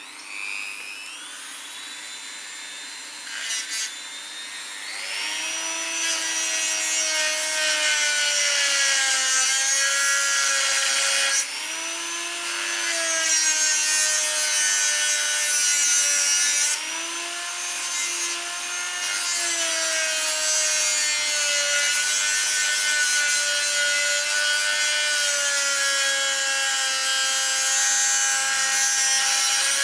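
Dremel rotary tool starting with a rising whine, then grinding the head off a steel rivet on the motorcycle chain's connecting link. Its whine sags and recovers several times as the bit is pressed in and eased off.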